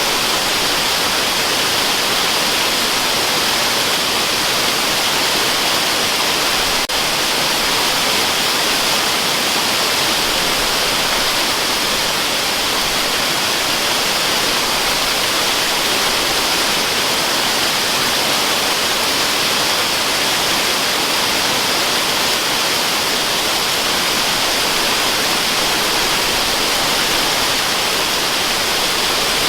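Waterfall white noise: a steady, unbroken rush of water-like noise, bright and hissy with little deep rumble.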